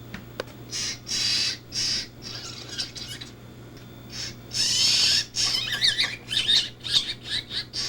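A blue jay giving a string of harsh, raspy calls: several short ones, a longer louder one about four and a half seconds in, then a quick run of short, wavering calls.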